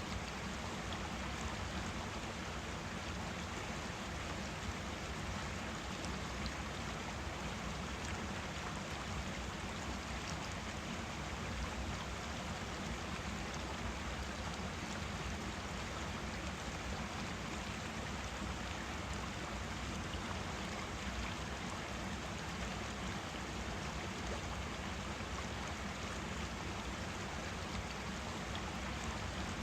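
Forest stream flowing steadily, an unbroken rush of running water.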